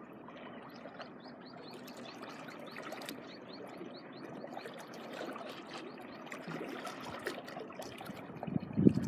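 Shallow seawater trickling and lapping at the shoreline, with a loud gust of wind buffeting the microphone near the end.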